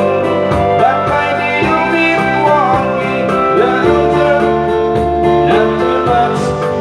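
A guitar strummed in a steady rhythm with a voice singing a slow country-folk melody over it.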